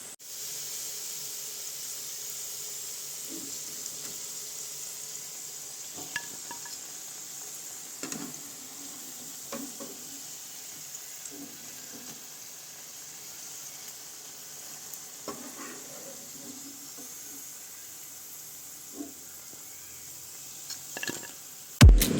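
Potato and onion pakoras deep-frying in hot oil with a steady sizzle, with scattered knocks and scrapes of a spoon against the pan as they are lifted out. Music starts abruptly at the very end.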